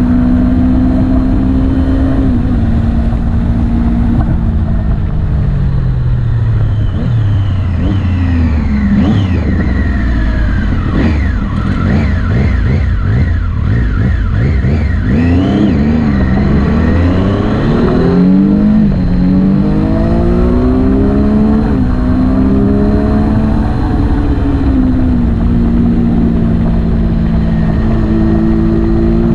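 Motorcycle engine running under way. Its pitch holds steady, falls over several seconds to a low note, then climbs back in steps, as the engine slows and then picks up again through the gears.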